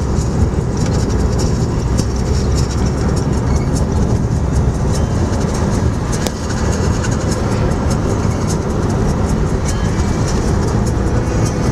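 Steady low rumble of a moving vehicle, with scattered light clicks and rattles over it.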